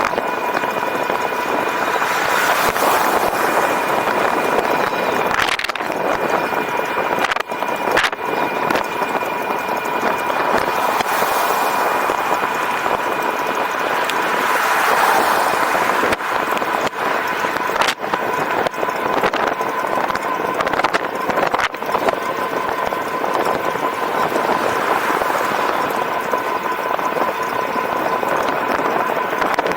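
E-bike riding along: wind and rolling noise on the camera, with a steady high whine from the electric drive and occasional sharp knocks from bumps.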